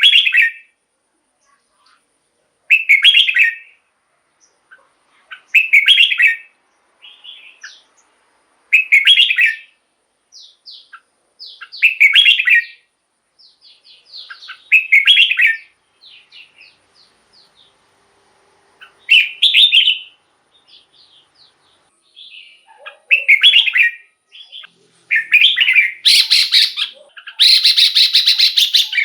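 Red-whiskered bulbul singing: a short, loud, bubbling phrase about every three seconds, with softer chirps between them. The phrases come closer together and turn harsher near the end.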